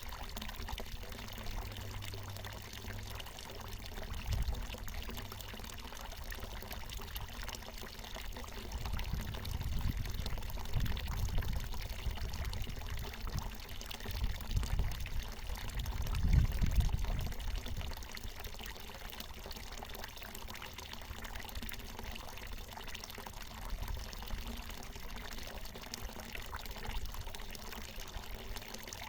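Water pouring steadily from a natural mountain spring and splashing below, with a low rumble that swells a few times, loudest about two-thirds of the way through.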